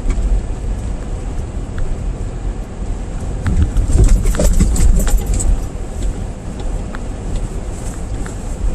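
A car driving on a snow-covered road, heard from inside: a steady low rumble of tyres and engine, growing louder in the middle with a cluster of sharp clicks and knocks.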